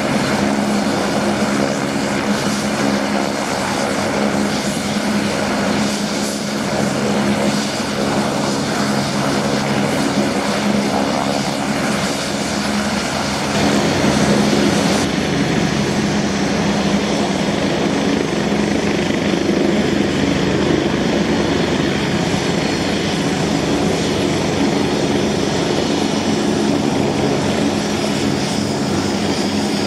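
Twin-engine Leonardo AW109 Power helicopter running with its turbines and rotor going steadily, a whine of several steady tones over a rushing noise; the tones shift about halfway through.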